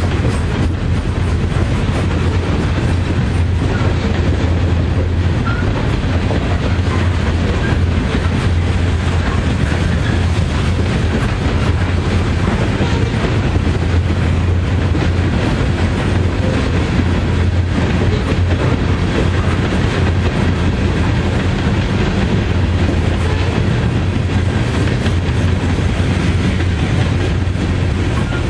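Loaded coal hopper cars of a freight train rolling past: a loud, steady, deep rumble of steel wheels on rail with clickety-clack clicking.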